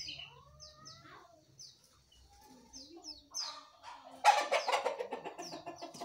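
Birds calling: short, high, falling chirps repeat throughout, and from about four seconds in a loud, fast run of clucking like a chicken's takes over.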